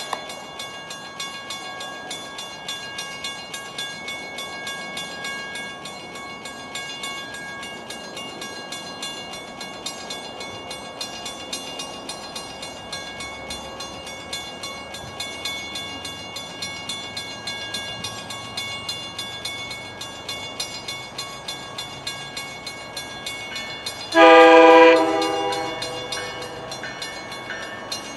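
Mechanical grade-crossing bells ringing with rapid, continuous strokes while a diesel train approaches. Near the end the locomotive's air horn sounds one long blast for the crossing.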